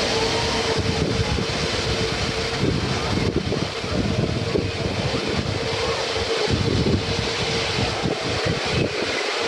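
Jet blast from an airliner's engines gusting over the microphone: a loud rush of wind buffeting, with a steady whine from the engines.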